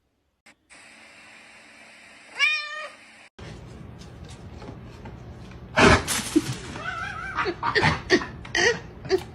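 Cats meowing: one long wavering meow about two and a half seconds in, then a string of short meows after a loud thump near six seconds.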